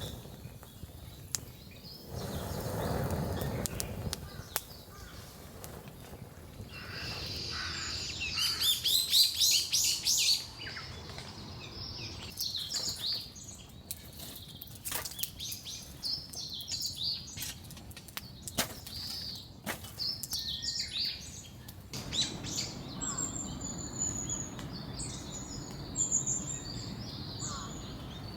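Wild birds singing: a loud, rapid string of repeated high chirps about eight seconds in, then scattered calls and thin whistles, over a background of sharp scattered clicks.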